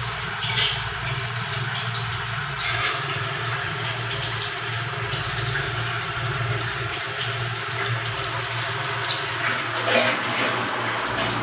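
Water running and splashing over a steady low hum, with a few short knocks.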